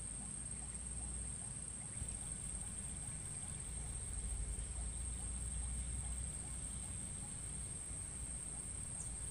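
A steady, high-pitched insect trill, like crickets or cicadas, runs without a break over a low, uneven rumble.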